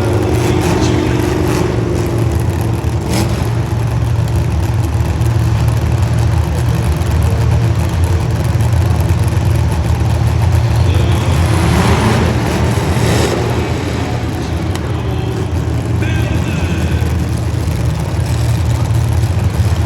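A motor vehicle engine running with a continuous low rumble, with a brief rise and fall in pitch around the middle.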